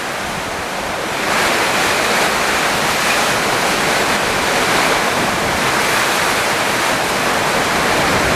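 Summer storm: heavy rain and strong wind making a steady, loud rushing noise that swells about a second in.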